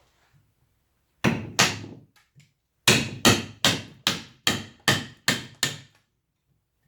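Wooden carving mallet striking a chisel or gouge into wood: two blows, a couple of light taps, then a steady run of eight blows at about three a second.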